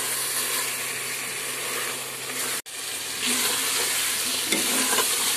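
Beef, tomato and onion masala sizzling as it fries in oil in an aluminium pot, stirred with a spoon, at the bhuna stage where the tomatoes and onions soften and the oil separates. The sound cuts out for an instant about two and a half seconds in, then the sizzle comes back a little brighter.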